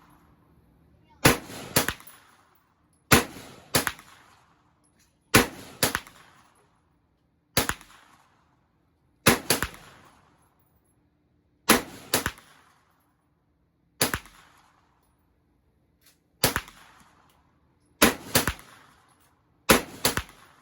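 Handgun gunshots at a steady pace, about one volley every two seconds, most of them quick pairs of shots half a second apart. Each shot has a short echoing tail.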